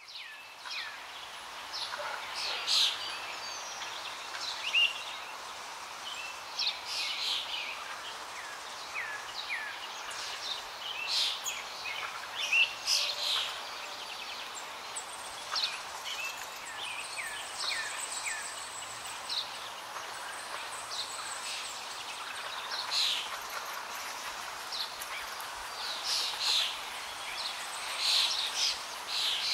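Many small birds chirping and calling, short high notes and quick falling whistles, over a steady background hiss.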